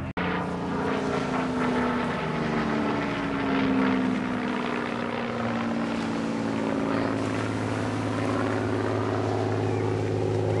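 Propeller aircraft flying past at an airshow display, its engine note falling in pitch as it goes by, then settling into a steady lower drone.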